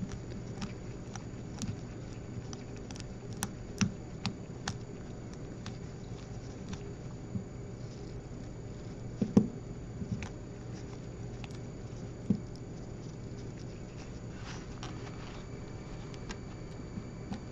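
Scattered small metallic clicks and taps from hands working a diamond anvil cell, turning the extraction screws to push out the piston, with a sharper knock about nine seconds in and another about three seconds later. A steady low hum runs underneath.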